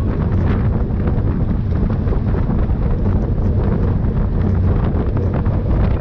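Wind buffeting a bike-mounted camera microphone at racing speed: a loud, steady low rumble, with faint scattered ticks over it.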